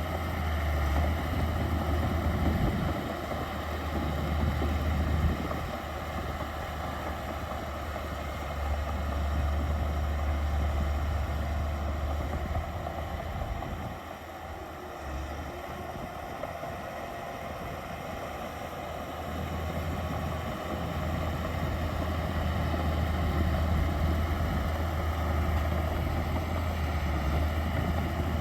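Heavy diesel earthmoving machinery running with a steady low rumble, easing off around the middle and building up again in the second half.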